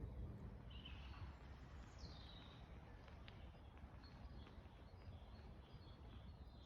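Near silence in open country, with faint bird calls: a short call about a second in and one falling in pitch about two seconds in.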